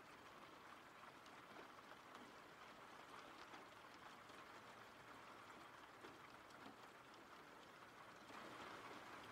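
Faint, steady recorded rain with a light patter of drops, growing slightly louder about eight seconds in.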